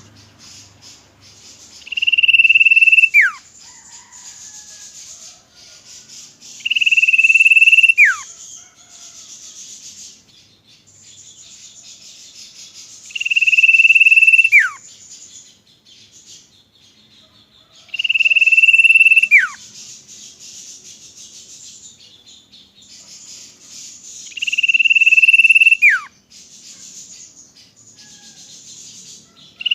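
Common iora (cipoh) whistling five times, roughly every five to six seconds: each call is a long, loud, level high note held about a second that then drops steeply in pitch. A steady high-pitched hiss runs underneath.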